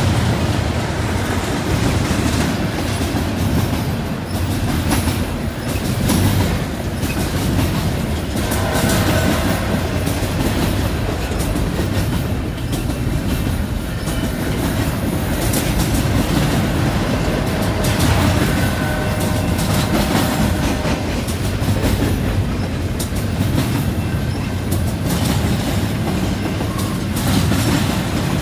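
Double-stack intermodal well cars of a CN freight train rolling past close by: a steady rumble with wheels clacking over the rail joints. A couple of brief, faint wheel squeals come in about a third and two thirds of the way through.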